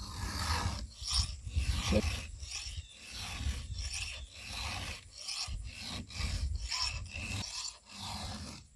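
Hand file being drawn across a chainsaw chain's cutting teeth in repeated rasping strokes, about two a second, sharpening a dull cutter. The filing stops abruptly near the end.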